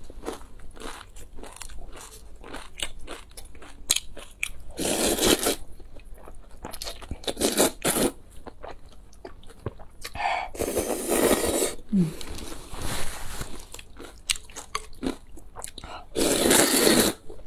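Close-miked eating: a person crunches and chews food in quick crisp bites, with several louder, longer crunching spells.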